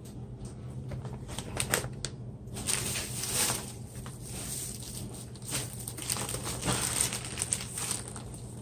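Plastic food containers and packaging being handled, crinkling and clicking irregularly, busier from about two and a half seconds in.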